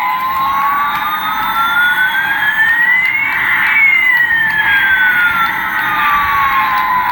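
Siren wailing in one slow cycle, rising in pitch for about three and a half seconds, then falling back down, over a steady hiss.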